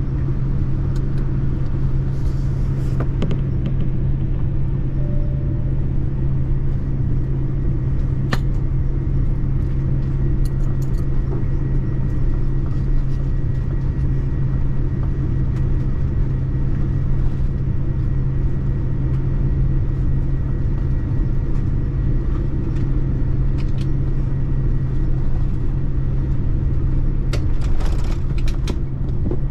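Steady low rumble of engine and airflow noise inside a Boeing 787-9 airliner cabin, with a few faint ticks and clicks.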